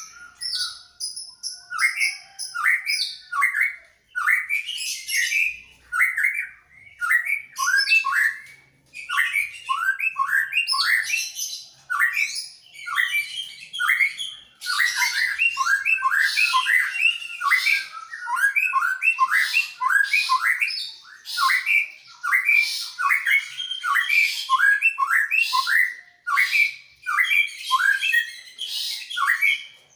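Greater green leafbird (cucak ijo) and white-rumped shama (murai medan) singing back and forth: a fast, nearly unbroken string of short chirps and whistled sweeps, with brief pauses about 4 and 9 seconds in.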